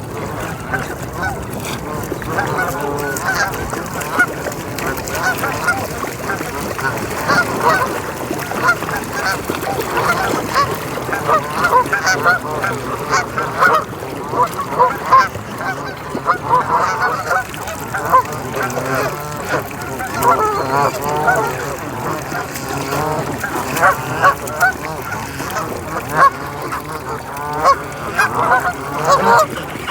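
A large flock of Canada geese honking, many calls overlapping in a continuous clamour that grows denser after the first few seconds.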